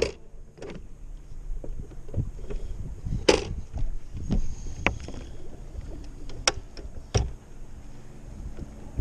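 Wind-driven water slapping against a small fishing boat's hull, a rough low rumble broken by scattered sharp knocks and clicks in the boat, the loudest about three seconds in.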